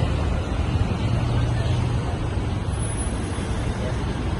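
Scania K230UB bus's diesel engine running steadily, heard from inside the bus, with a constant low hum.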